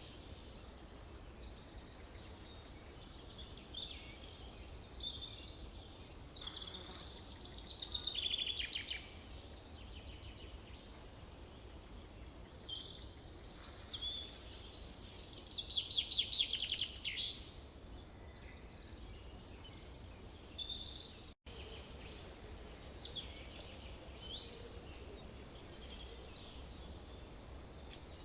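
Several songbirds singing and chirping over a low steady background hiss, with louder rapid trills about eight seconds and sixteen seconds in.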